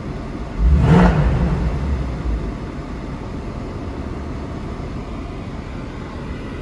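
Mercedes-AMG C63's warm V8 engine given one quick rev about half a second in, then settling back to a steady idle.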